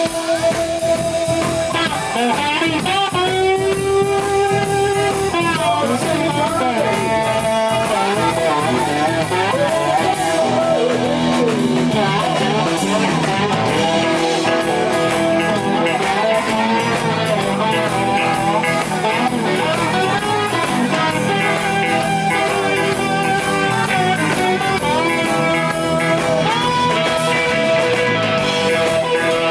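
Live blues-rock band playing an instrumental stretch, with guitar out front playing long held notes that bend and waver in pitch.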